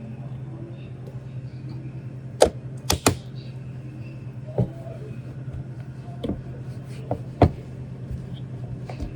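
Sharp knocks and clicks of hard objects being handled, about eight in all at uneven intervals, over a steady low machine hum.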